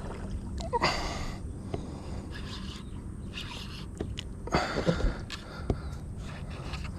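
Water sounds around a kayak: two short splashy swishes about three and a half seconds apart, with a few small knocks, over a steady low rumble.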